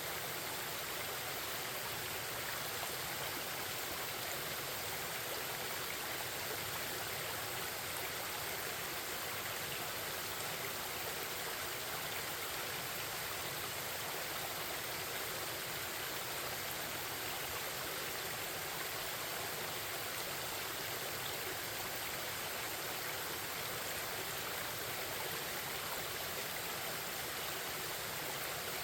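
Forest stream babbling, a steady, unbroken rush of flowing water.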